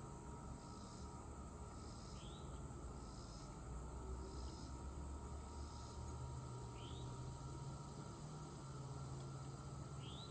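Steady high-pitched drone of crickets or other insects, with a bird giving a short rising chirp three times.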